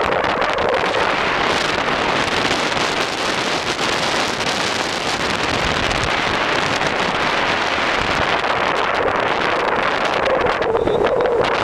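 Steady road and wind noise of a moving car, an even rushing sound with wind buffeting the microphone.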